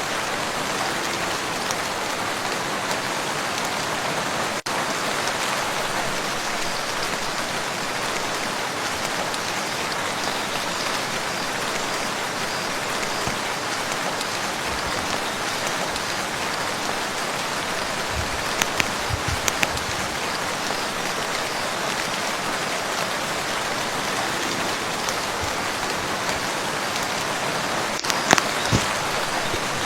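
Steady rain falling on a lake surface, a dense even hiss of drops, with a few louder heavy drips splashing about two-thirds of the way through and again near the end.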